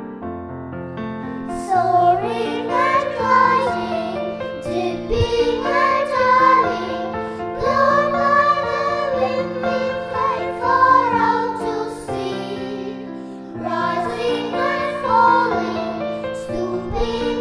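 Voices singing a Christian song over sustained piano or keyboard accompaniment; the singing comes in about two seconds in and breaks off briefly about three-quarters of the way through before resuming.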